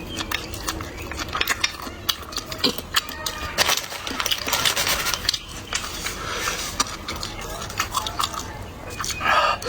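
Close-miked eating: chewing with many quick, sharp crunches and clicks, and utensils clinking against dishes.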